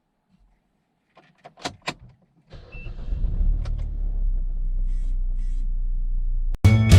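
A few short clicks and knocks, then a car's steady low running noise that cuts off suddenly near the end.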